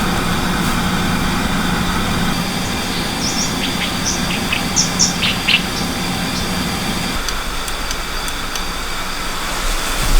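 A few short, high bird chirps between about three and six seconds in, over a steady outdoor rush of noise and a low steady hum that stops about seven seconds in.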